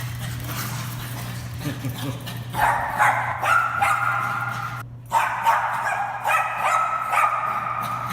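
Bichon Frise barking and yapping in repeated high-pitched calls, starting about a third of the way in with a brief break near the middle, over a steady low hum: excited play barking.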